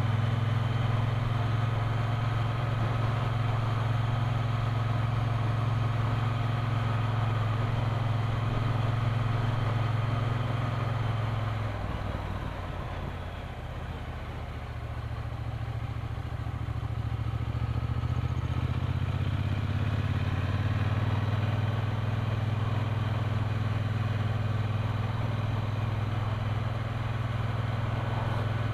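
Triumph Bonneville T120's parallel-twin engine running steadily under way. About twelve seconds in the note drops lower and quieter, then climbs back up around twenty seconds.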